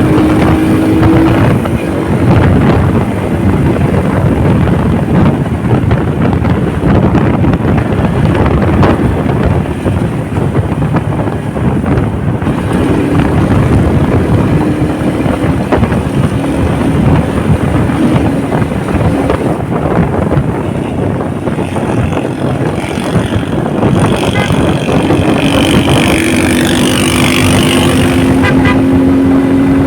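Motorcycle engine running steadily on the move, with wind rushing over the microphone; the engine note climbs slightly near the end.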